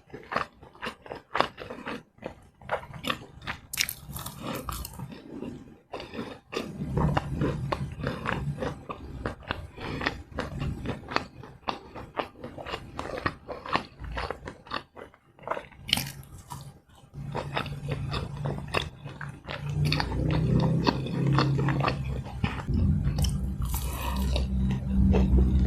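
Close-miked eating: steady chewing and biting with many sharp wet mouth clicks, the chewing growing heavier and lower near the end.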